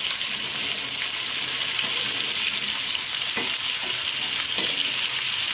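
Sliced bitter gourd sizzling in hot oil in a kadai as a metal spatula stirs it, with a steady high hiss and a few light scrapes of the spatula against the pan.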